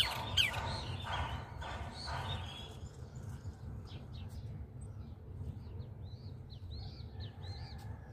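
Birds calling by the water. A series of repeated harsh calls, about two a second, fades out after two and a half seconds; thin high chirps from a smaller bird follow. A sharp click comes at the very start, over a steady low rumble.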